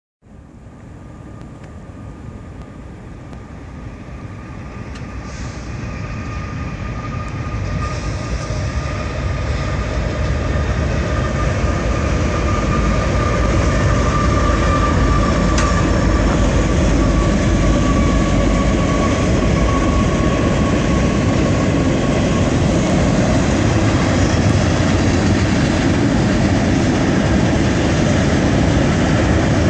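Diesel-hauled freight train passing: the locomotives rumble by, then a long string of freight cars rolls past. It grows louder over the first dozen seconds and then holds steady, with a thin high whine over it for roughly the first twenty seconds.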